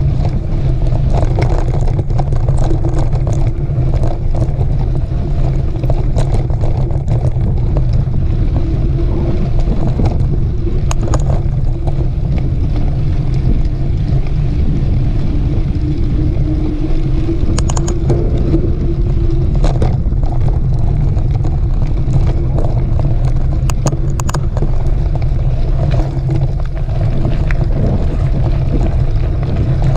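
Wind rushing over the microphone of a camera riding along on a mountain bike, with scattered clicks and rattles from the bike on the trail.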